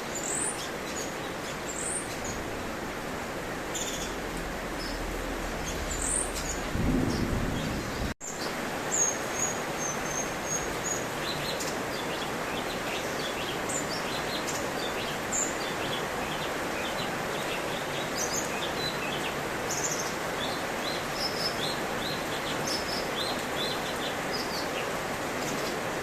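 Cucak cungkok songbird calling in short, high chirps and brief whistled phrases over a steady background hiss. A short low rumble comes about seven seconds in, and the sound drops out for an instant a little after eight seconds.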